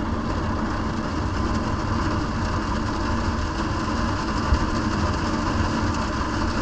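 Steady vehicle engine and road noise, mostly low rumble, with no change in pitch.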